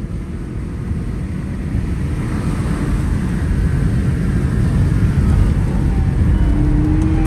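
Car engine and exhaust rumble, a deep noisy drone that grows steadily louder over several seconds.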